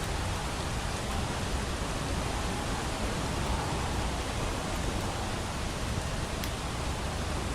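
Steady hiss of rain, with a few faint crackles from a wood fire.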